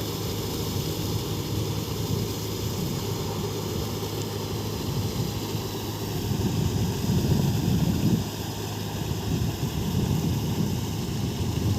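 Mahindra 45 hp tractor's diesel engine running steadily while working a rotavator, a low continuous hum that grows louder for a second or so about seven seconds in.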